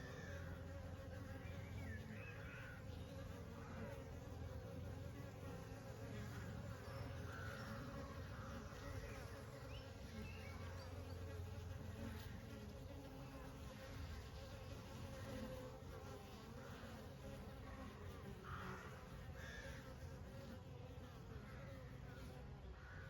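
Honey bees buzzing, a steady dense hum of many bees at once.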